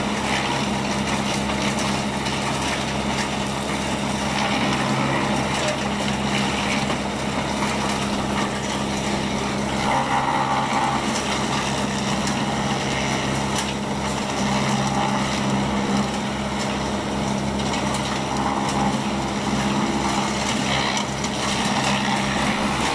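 Sawmill machinery running steadily with an engine-like drone.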